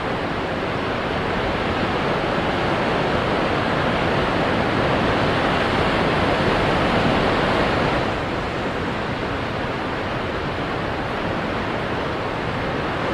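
Ocean waves breaking on rocks: a steady rush of surf that swells for several seconds and falls back about eight seconds in.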